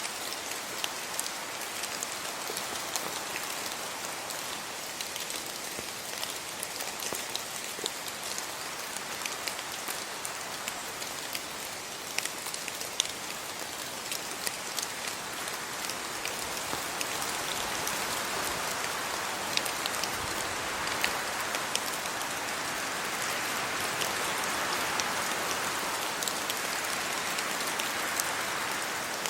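Steady rain falling, with many sharp drop ticks throughout. About two-thirds of the way in, a broader rushing noise swells up for several seconds and then eases: wind through the trees and leaves.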